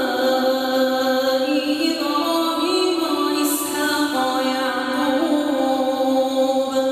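A single voice reciting the Qur'an in melodic chanted style, drawing out long held notes that step up and down in pitch without a pause.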